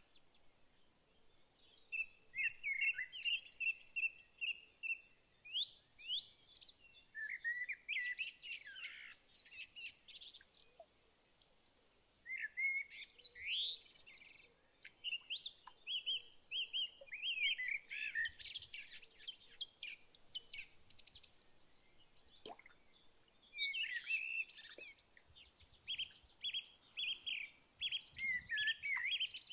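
Songbirds singing: bursts of rapid high chirps and trills repeated every few seconds with short pauses between, and a brief lull past the middle.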